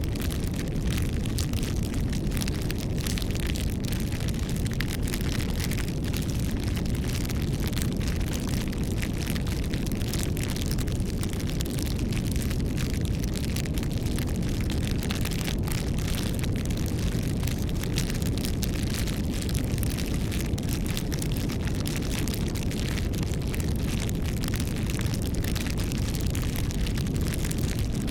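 Wood fire burning with a steady low rush and many sharp crackles and pops.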